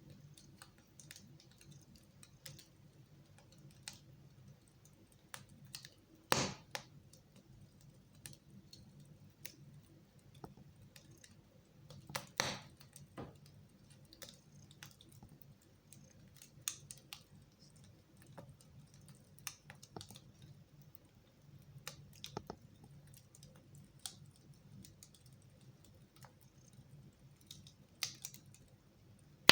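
Wood fire crackling in a fireplace: scattered small crackles and clicks, with louder pops about six seconds in, about twelve seconds in and near the end.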